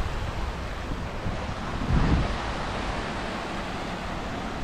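Sea waves washing onto a sandy beach, with wind buffeting the microphone; a louder low rush about two seconds in.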